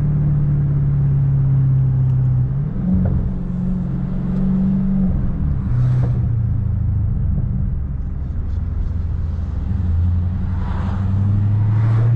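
Dodge Scat Pack's 6.4-litre HEMI V8 running under way, its engine note stepping up about three seconds in, falling back around five seconds, then climbing again near the end.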